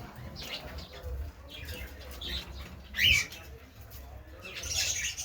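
Caged pet birds chirping in a loft, with short sharp calls every half second or so and one loud call about three seconds in. A brief flurry of wing flapping comes near the end.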